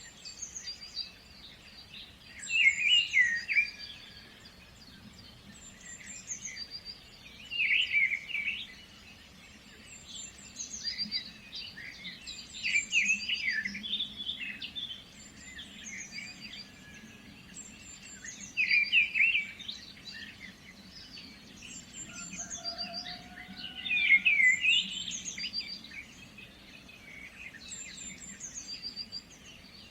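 Songbirds chirping and singing in short bursts of quick notes every few seconds, over a faint steady low background.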